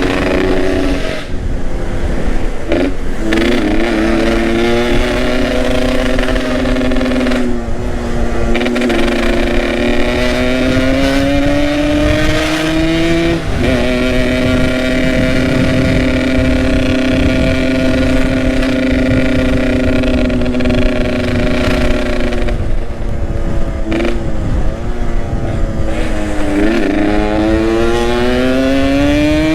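Yamaha RX-King two-stroke single-cylinder engine with a Boban aftermarket exhaust, ridden on the road. Its note climbs in pitch, drops back at the gear changes, holds steady for several seconds mid-way, then climbs again near the end. Wind rushes on the microphone underneath.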